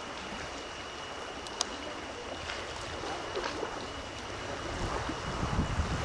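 Sea water splashing and sloshing, with a single sharp tap about a second and a half in. Wind buffets the microphone more strongly near the end.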